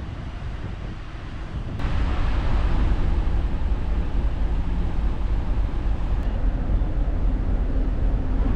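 Wind buffeting the microphone on a ferry's open deck, over a low, steady rumble from the ship. It jumps abruptly louder about two seconds in.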